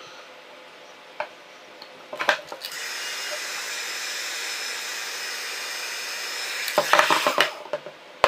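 A handheld hot-air blower is switched on and runs with a steady hiss for about four seconds, then is switched off with clicks and handling noise. It is likely being used to heat vinyl sticker film so that it shrinks.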